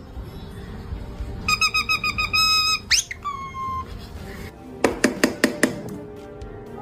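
A parrot's quick run of high, evenly repeated chirps, then a fast upward-sliding whistle and a short held whistle note, over quiet background music. A handful of sharp clicks come about five seconds in.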